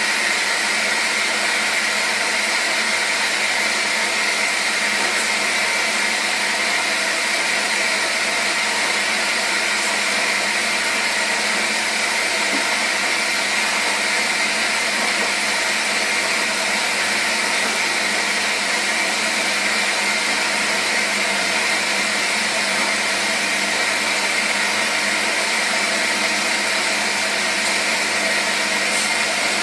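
Washing machine running: a steady, unbroken motor-and-drum whir with a constant hiss.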